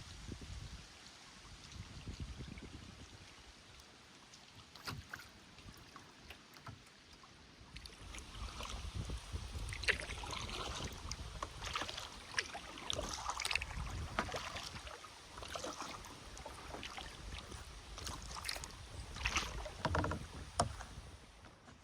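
Kayak paddle strokes: the paddle blades dipping into and splashing in the river water, with drips running off the paddle. It is quiet for the first several seconds, then the splashes come steadily from about eight seconds in.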